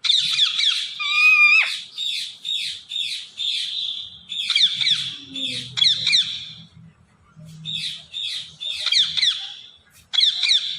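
A parrot calling in rapid strings of high, harsh squawks and chirps, in several runs broken by short pauses.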